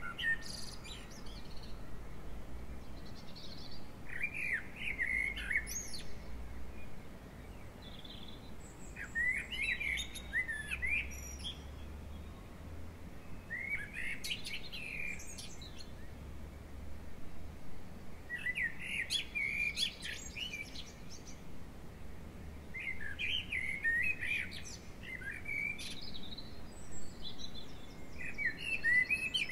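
A songbird singing a short, rapid warbling phrase about every five seconds, six times in all.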